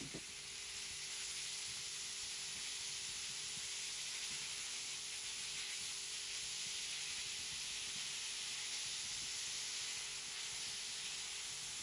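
Minced beef and chopped onions sizzling in hot oil in a frying pan: a steady, even hiss.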